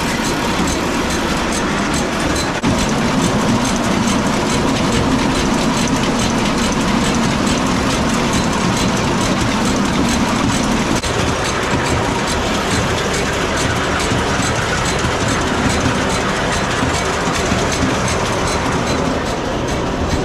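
Old silage feed cart running, its beaters and drive clattering steadily with rapid rattling clicks over the drone of its motor.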